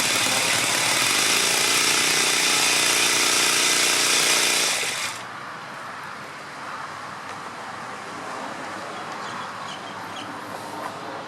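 Enya 80-4C single-cylinder four-stroke glow model engine running steadily, then cutting off suddenly about five seconds in, leaving a fainter steady background noise.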